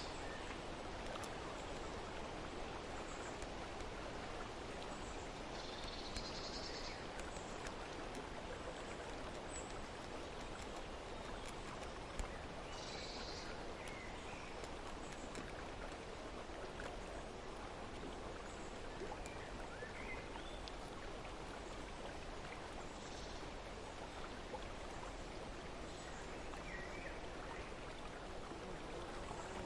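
Steady rushing of running water, with a few short bird calls now and then.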